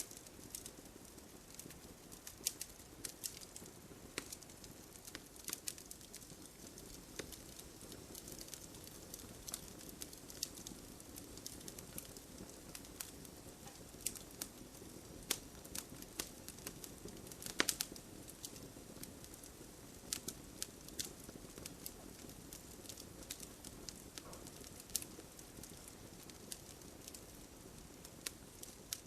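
Wood campfire burning with a steady soft hiss and irregular sharp crackles and pops, one louder pop a little past the middle.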